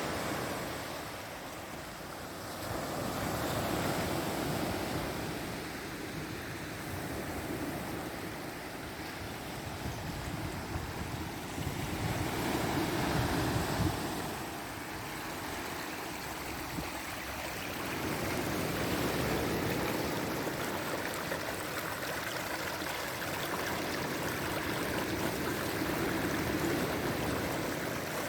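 Sea waves breaking and washing up on the shore, the rush of water swelling and easing every several seconds.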